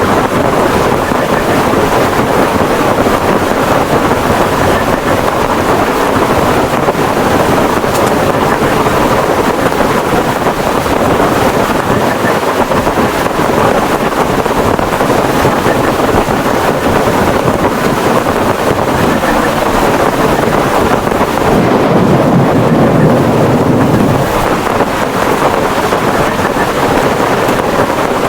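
Heavy rainstorm with strong wind: a loud, steady rush of rain and wind noise, swelling with a stronger low gust about three-quarters of the way through.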